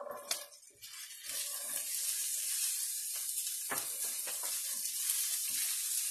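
Diced celery tipped into a hot pan of bacon fat and onions, starting to sizzle about a second in and sizzling steadily while a silicone spatula stirs and scrapes it, with a few soft knocks.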